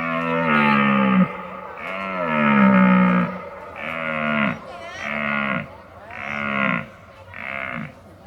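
A cow mooing over and over: six calls, the first two longest and the later ones shorter, each dropping in pitch as it ends.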